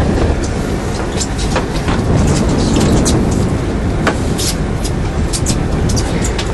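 Fishing boat's engine running with wind and water noise on deck, and scattered sharp clicks and knocks throughout.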